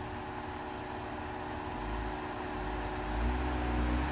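Jeep Comanche pickup's engine running at low revs, then picking up throttle about two seconds in and rising slightly in pitch as the truck eases forward to bump its front end up onto a trail obstacle.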